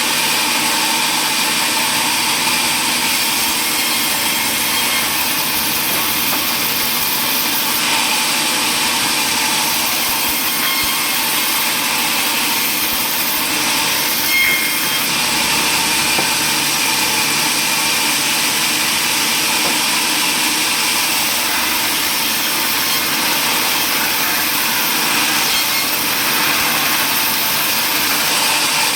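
Powered saw running steadily and cutting wood, a loud continuous high-pitched noise.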